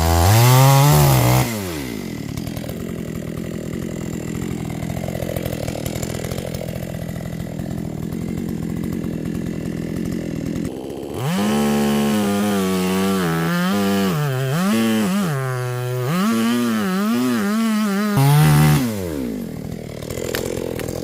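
Two-stroke chainsaw revving briefly, then idling for about nine seconds. It then runs at high revs, the pitch wavering up and down under load for about seven seconds, gives one more short rev and drops back to idle near the end.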